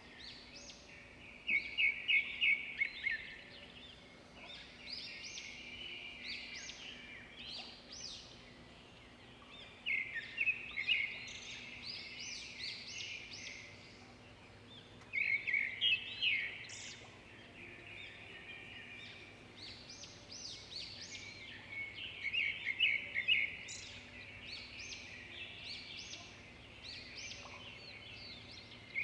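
Swiftlets twittering: bursts of rapid high chirping trills every several seconds, with scattered quieter chirps between, over a faint steady hum.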